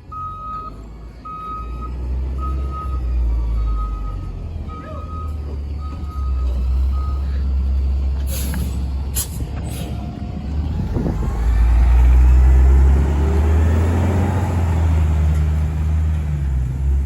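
Rear-loader garbage truck backing up, its reversing alarm beeping about twice a second for the first several seconds. Then come a few short sharp hisses of air, and the truck's diesel engine revs up, loudest about twelve seconds in.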